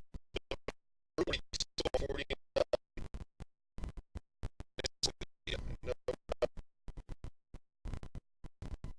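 Broken-up, stuttering audio from a faulty recording: the sound cuts in and out several times a second, leaving short scraps of a voice and handling noise.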